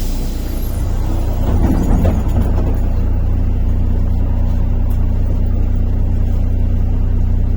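MAZ-103 city bus running on the route, heard from inside the passenger cabin: a steady low engine drone and road rumble, swelling slightly a second or two in.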